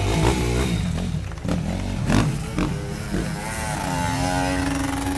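Motorcycle engines running, a constant low drone broken by a few sharp knocks and a brief pitched sound that bends up and down about three and a half seconds in.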